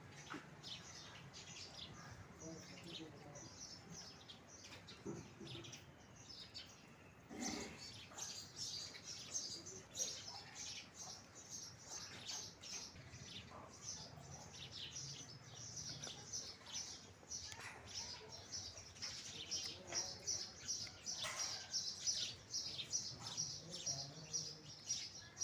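House sparrows chirping: a run of short, repeated chirps that becomes busier and louder about seven seconds in.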